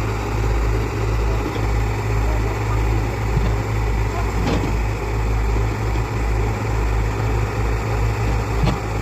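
Hyundai Robex excavator's diesel engine running steadily with a deep, even rumble, with a couple of faint clicks in the middle and near the end.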